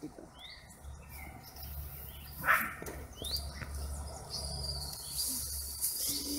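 Birds chirping outdoors: several short rising chirps, and a thin steady high note held through the last two seconds, over a low rumble.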